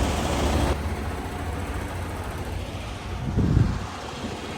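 Semi truck's diesel engine idling with a steady low rumble. A hiss above it stops abruptly under a second in, and a brief louder low sound comes about three and a half seconds in.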